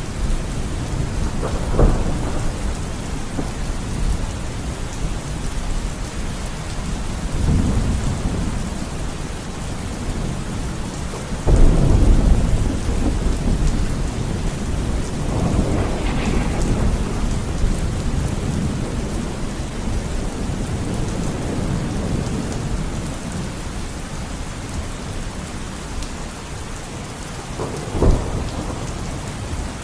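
Steady heavy rain with rolling thunder: low rumbles swell and fade, with sharper cracks of thunder about two seconds in, loudest near the middle, and again near the end.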